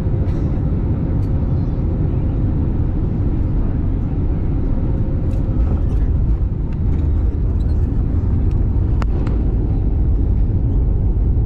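Steady low rumble of an Airbus A320 heard from inside the passenger cabin, with a faint steady hum over the first half. A few light clicks, the sharpest about nine seconds in.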